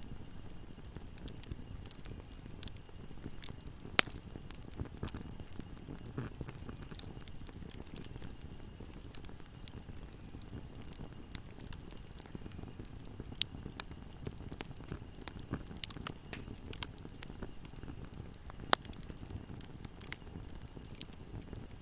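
Wood fire crackling: a steady low rush of burning with scattered small snaps throughout and a few sharp, louder pops.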